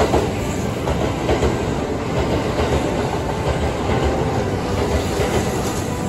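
A Kintetsu red-and-white electric train running past the platform at speed, with steady rolling noise and the wheels clacking over rail joints.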